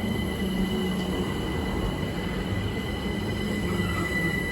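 London Overground electric multiple-unit train at the platform: a steady low rumble with a thin, continuous high whine over it.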